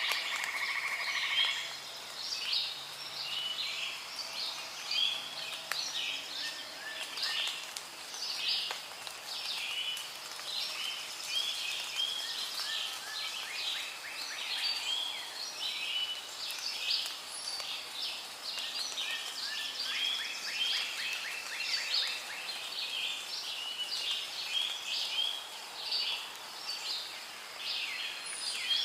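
Rainforest ambience recording: many birds calling at once, a dense, continuous chorus of short chirps and trills over a soft background hiss.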